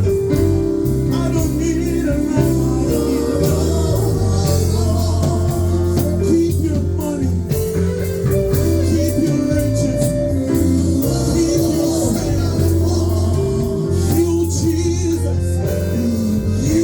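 Live gospel worship music: a band playing with singing over it.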